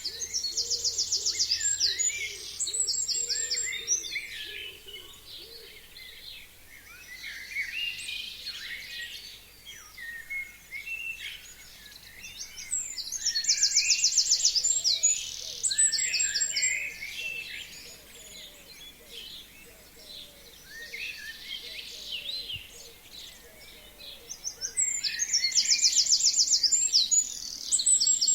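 Forest birds singing: one loud song, a fast trill followed by a short flourish, comes three times about twelve seconds apart, with quieter chirps and calls from other birds in between.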